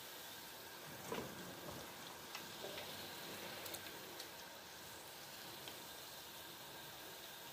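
Meatballs sizzling steadily as they fry in hot oil in a pan, with a few light clicks of a slotted spoon against the pan, the loudest about a second in.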